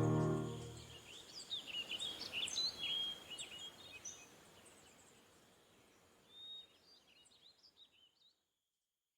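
Songbirds chirping in short, quick high calls, busiest in the first few seconds, then thinning out and fading to silence near the end; the tail of an acoustic guitar music track dies away at the very start.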